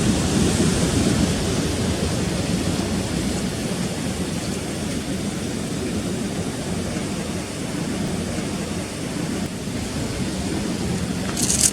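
Rough sea surf and wind on the microphone, a steady low rumbling wash. A brief, sharper hiss comes just before the end.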